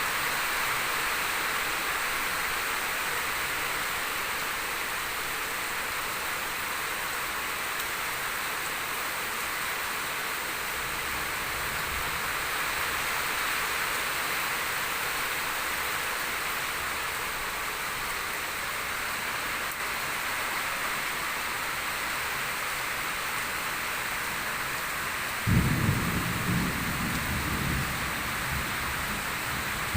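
Heavy monsoon rain falling steadily as an even hiss. About 25 seconds in, a loud low rumble starts suddenly and carries on under the rain.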